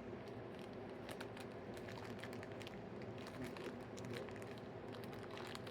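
Faint crinkling and small clicks of a small plastic blind bag being handled and opened by hand, over a low steady hum.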